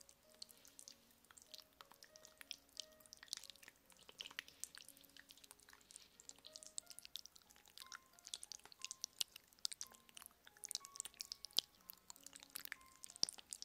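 Rapid, faint crackly scratching and light tapping right on an ASMR microphone, many small irregular clicks, over soft background music of slow held notes.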